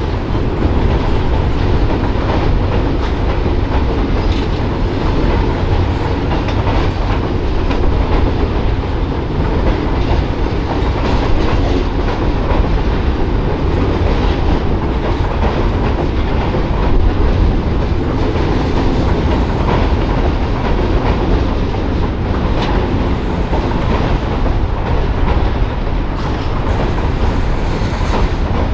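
Freight train of tank cars and covered hoppers rolling across a steel girder bridge: a steady, loud rumble of wheels with repeated clicks and clanks as the wheels pass over the rail joints.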